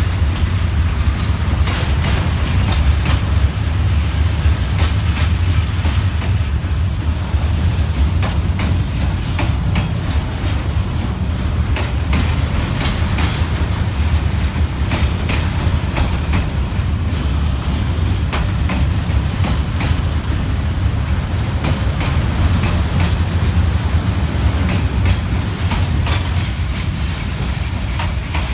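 Freight train of covered boxcars rolling past close by: a steady low rumble of wheels on rail, with frequent clacks and knocks as the wheels cross rail joints.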